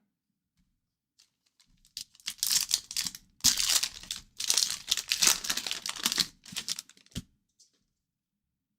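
A trading-card pack wrapper being torn open and crumpled by hand, in bursts of crinkling over about five seconds, ending with a sharp tap.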